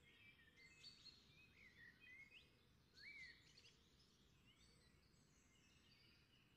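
Faint birdsong: scattered short chirps and gliding whistled notes from several birds over a low steady hiss.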